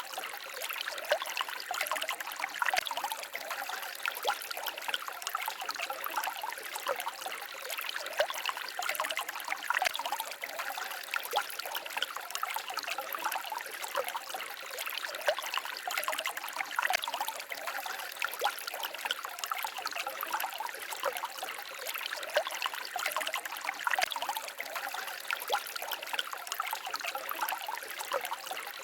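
Small forest stream babbling and trickling over stones, a steady flow of water with many small splashes and gurgles.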